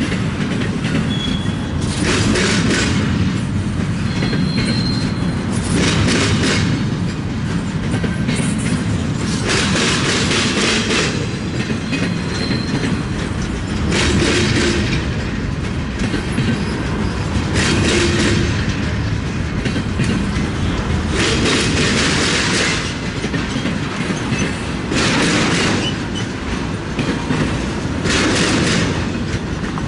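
CSX freight train's cars rolling past, wheels clacking over the rail joints over a steady rumble. A louder rushing noise swells and fades every three to four seconds.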